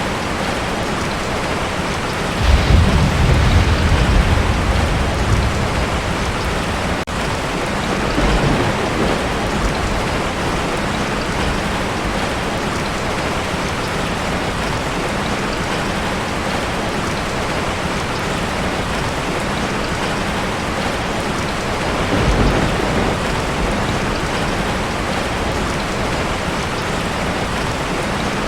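Heavy rain falling steadily on a tin roof, with a rumble of thunder about two and a half seconds in that lasts a few seconds. Shorter, softer rumbles follow near 8 s and about 22 s in.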